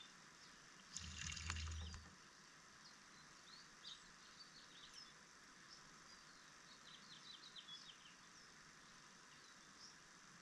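Small birds at a bird bath chirping faintly, in short high calls, with a quick run of chirps about seven seconds in. About a second in there is a brief louder rush of noise with a low thump lasting about a second.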